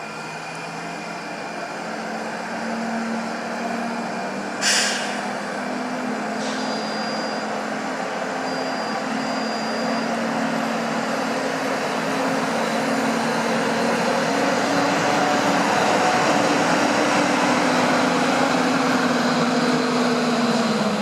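Train at the station, its motors humming in a few steady tones that grow slowly louder and sag in pitch near the end. A brief sharp hiss comes about five seconds in.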